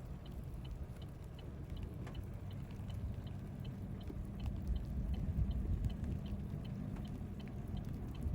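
Low, steady rumble of a vehicle inside its cab, with the hazard-flasher relay ticking evenly, about two to three ticks a second.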